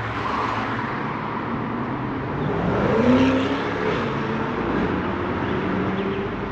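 Road traffic crossing the bridge overhead: a vehicle passing, its engine note sliding in pitch and loudest about three seconds in, over a steady rumble of traffic.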